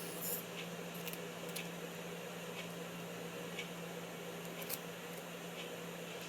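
Quiet room tone: a steady low hum under faint hiss, with a few small faint clicks.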